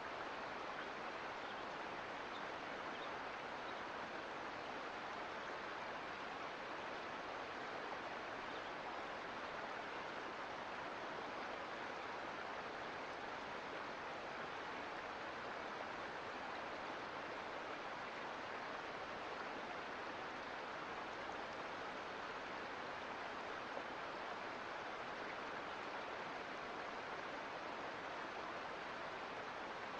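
Mountain creek flowing: a steady rush of running water with no changes.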